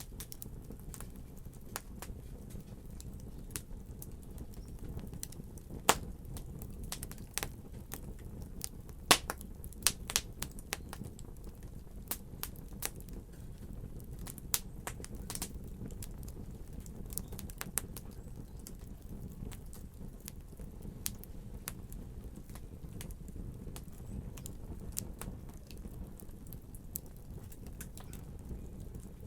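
Fire burning in a fireplace: a steady low rumble under irregular crackles and sharp pops. A few louder pops come around a third of the way in.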